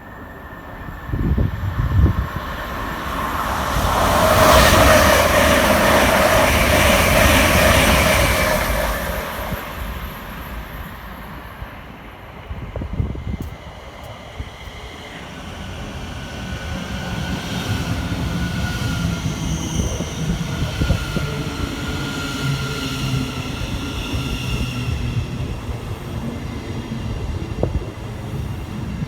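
Train passing through at speed: a loud rush of wheels and air that swells to a peak a few seconds in and fades away. After a lull, a train's steady rumble with a level electric whine builds up.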